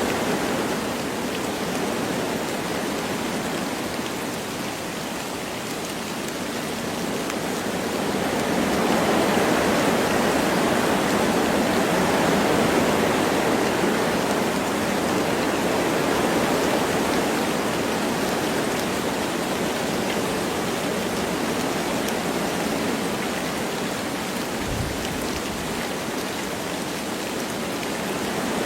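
Wind blowing through forest trees with light rain falling, a steady rushing hiss. The wind swells stronger about a third of the way in, then eases back.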